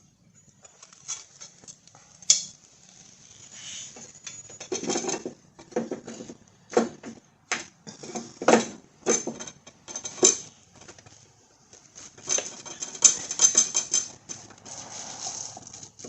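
Irregular metallic clinks, knocks and scraping as a riding-mower blade and its spacer hardware are handled and fitted onto the deck spindle by hand.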